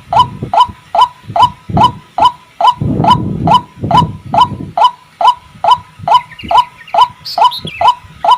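White-breasted waterhen (ruak-ruak) calling: a short rising note repeated evenly, about two to three times a second, with rough low grunting notes mixed in. A brief higher twittering comes in near the end.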